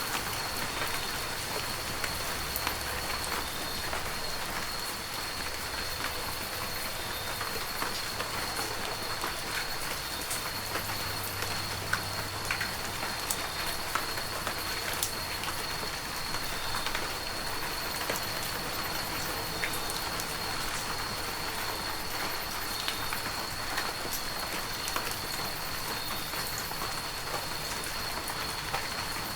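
Heavy rain falling steadily, with many individual drops striking close by. A thin, steady high-pitched tone runs underneath.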